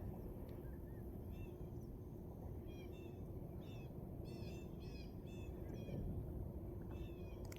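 Small birds calling with short, high chirps that come in little clusters every second or so, faint, over a steady low hum.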